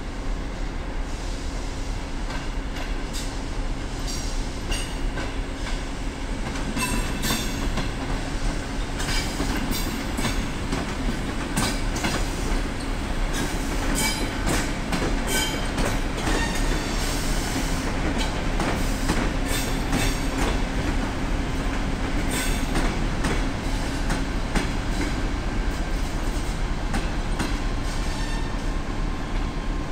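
Electric suburban train passing slowly through a station, its wheels clicking over rail joints and points in a long irregular run, with some brief wheel squeal. A steady hum and rumble lie under it throughout.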